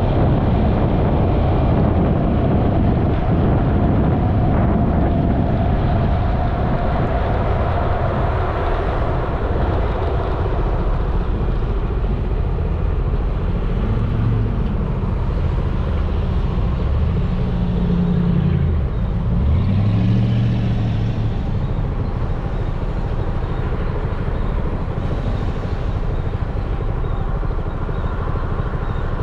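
Yamaha XMAX 300 scooter's single-cylinder engine and wind rushing past while riding. About halfway through, the engine note rises and falls a few times as the speed changes.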